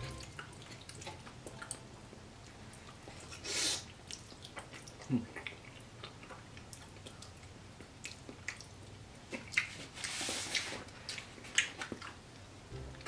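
Close-up eating sounds of a person chewing saucy spaghetti: small wet mouth clicks and smacks throughout, with two louder breathy slurp-like bursts about 3.5 s and 10 s in.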